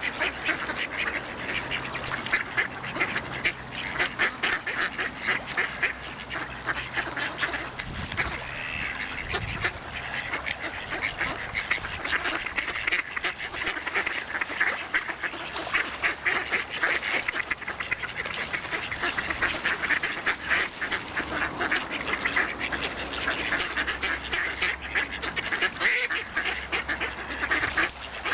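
A flock of ducks quacking, many short calls overlapping in a continuous, busy chatter.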